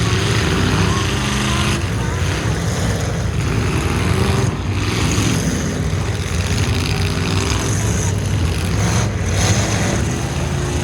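Full-size pickup truck engines running loud and revving up and down at varying speed.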